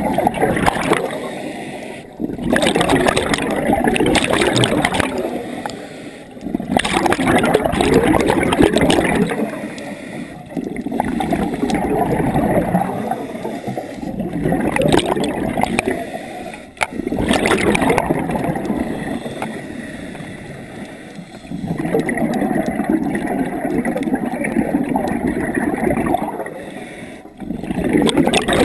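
A scuba diver breathing through a regulator underwater: bubbling rushes of exhaled air recur every four to five seconds, with quieter pauses for each inhale between them.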